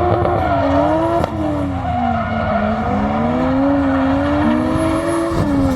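Drift car engine under hard running, its pitch rising and falling as the throttle is worked, over a steady hiss of tyre noise. There is a brief sharp click about a second in.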